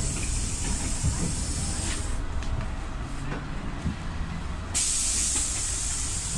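Cabin sound of a PAZ 320414-04 bus under way: its YaMZ-53423 gas engine and running gear make a steady low rumble. A high hiss over it drops away about two seconds in and cuts back in sharply near the five-second mark.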